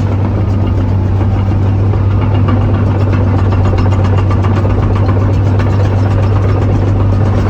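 A diesel engine of heavy equipment idling steadily and loudly, close by.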